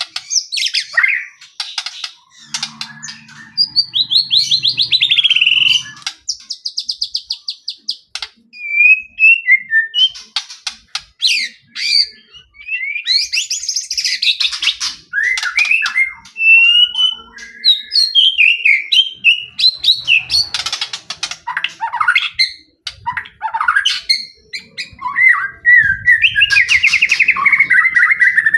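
White-rumped shama (murai batu) singing in full, continuous song. Its phrases run one after another with short pauses: clear whistled glides, fast rattling trills and quick runs of notes.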